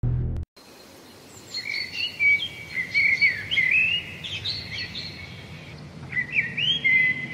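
Birds singing and chirping: a busy string of short, quick chirps and trills that rise and fall, starting about a second and a half in. A brief low sound at the very start cuts off abruptly.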